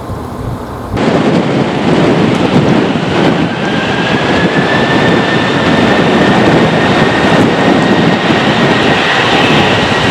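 Airbus A320's twin jet engines at takeoff power: a loud roar that starts abruptly about a second in, with a whine that rises slightly and then holds steady.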